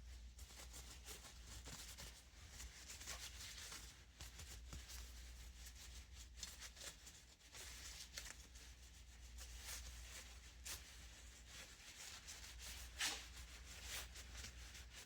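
Faint rubbing and light clicks from box fan parts being handled and wiped clean, over a low steady hum.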